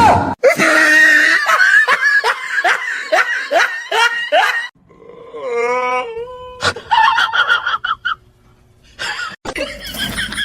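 A person laughing hard in a run of quick, falling 'ha' sounds. About halfway through comes a wavering, drawn-out call, followed by more short bursts of voice.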